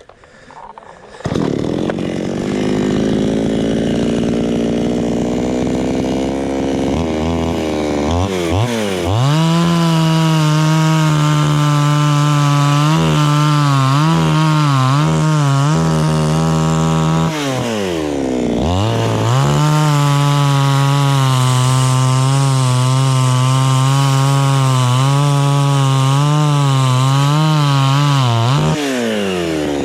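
Gasoline chainsaw running at low speed, revved to full throttle about eight seconds in and cutting through a jackfruit log, its pitch wavering as the chain bites. The throttle eases off briefly about halfway through, then opens again, and the saw slows near the end.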